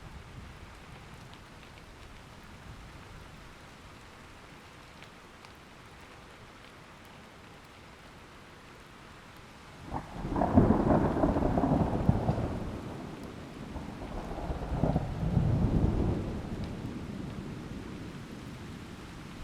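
Steady rain falling, then about halfway through a thunderclap breaks with a sharp crack and rumbles in two swells before fading back under the rain.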